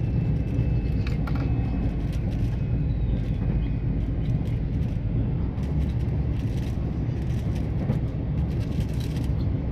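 Passenger train running at speed, heard from inside the carriage: a steady low rumble of wheels on rails, with a few faint clicks.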